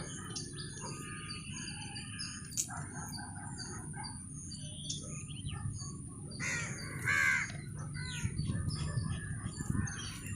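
Birds chirping throughout, with two louder calls about two thirds of the way in.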